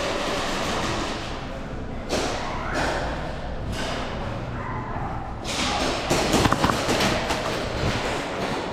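Thuds and knocks against a steady rumble, with a quick run of sharp clicks and knocks about five and a half to seven seconds in.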